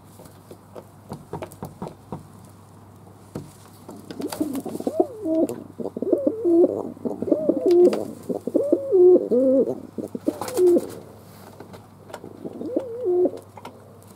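Fantail pigeons cooing: a long run of warbling coos starting about four seconds in and lasting some seven seconds, then a shorter burst of coos near the end. Scattered sharp taps are heard before the cooing starts.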